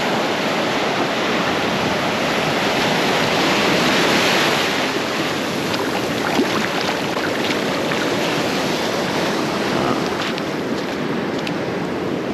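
Ocean surf breaking and washing up a sandy beach, with wind on the microphone. One wave swells louder about four seconds in, and a few faint ticks come in the second half.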